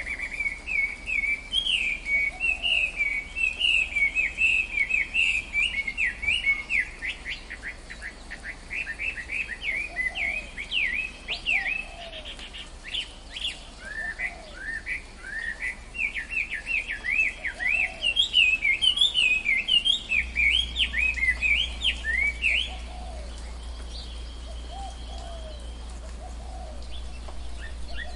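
Forest birds chirping in dense, rapid runs of short high calls, with fainter lower calls now and then. The chirping stops about four-fifths of the way through, leaving a quieter, steady hush with only a few faint chirps.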